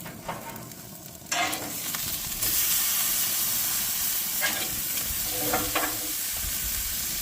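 Steaks sizzling on a gas grill. The sizzle comes in about a second in, grows louder shortly after, then holds steady.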